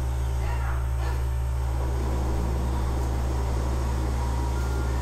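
Steady low electrical hum, with a Siamese kitten's faint, high mew about half a second in.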